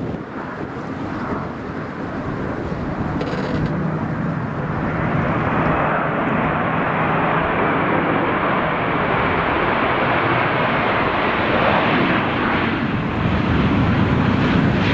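Airliner engine noise growing louder over the first five seconds, then holding as a loud steady rush, with wind buffeting the microphone underneath.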